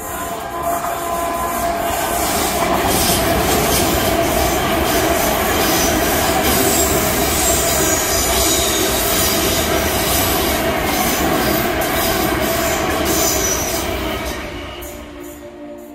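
South Western Railway Class 450 Desiro electric multiple unit passing at speed on curved track: loud rolling wheel-and-rail noise with high wheel squeal and some clickety-clack, building up over the first couple of seconds and fading near the end as the train clears.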